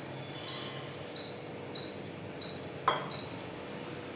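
A short high-pitched chirp repeating steadily, about every two-thirds of a second, with a single sharp click about three seconds in.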